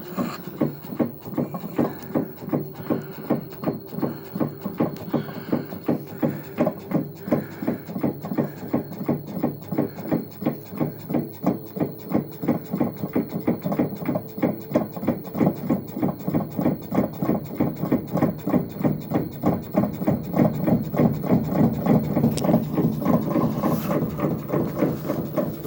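Samsung WA5451ANW top-load washing machine running with a fast, regular knocking, about three knocks a second, getting louder past the middle: an abnormal noise whose cause the owner does not know.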